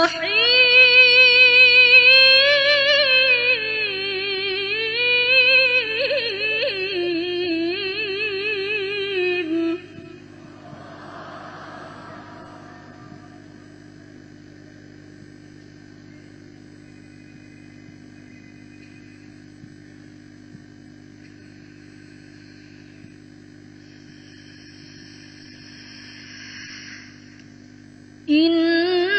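A young woman's Quran recitation (tilawah), long melismatic held notes with wide vibrato, ending about ten seconds in. A long pause follows with only a steady low hum, and the chanting voice starts again near the end.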